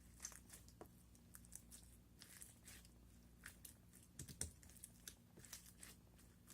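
Faint, irregular sticky clicks and crackles of slime being squished and stretched by hand, over a steady low hum.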